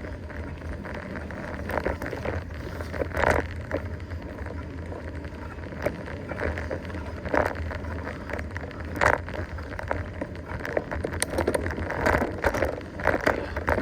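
Mountain bike rolling over a rough, rooty trail: irregular knocks and rattles from the bike and tyres over a steady low rumble.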